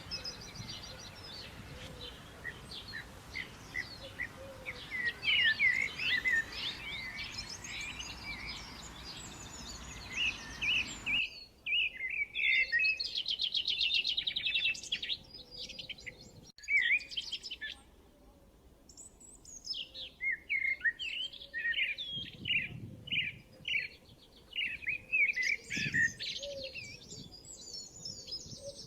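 Birds chirping and singing, many quick rising and falling notes and rapid trills, overlapping. About a third of the way in the background hiss drops away abruptly, as if a different recording of birdsong starts.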